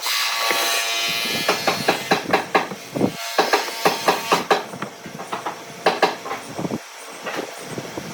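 A quick, irregular run of sharp knocks and taps, from tools striking wood in a woodworking shop.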